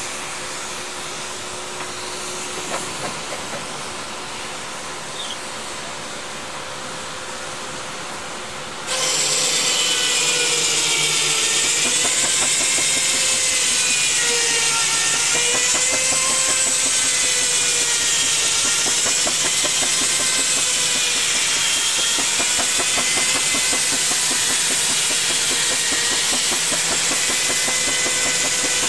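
Steam engine hissing and running, with a wavering tone. About nine seconds in it abruptly becomes much louder.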